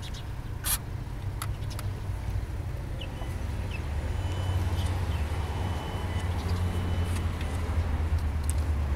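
Audi A4 B6 1.9 TDI four-cylinder diesel engine idling steadily, a low rumble that grows somewhat louder about four seconds in. The noise under diagnosis comes from the auxiliary belt tensioner, whose spring is worn and no longer holds properly.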